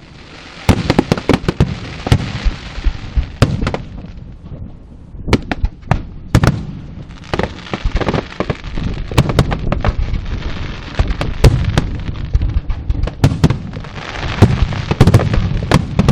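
Fireworks and firecrackers going off in a dense barrage of sharp bangs and crackling, easing briefly about four seconds in before building again.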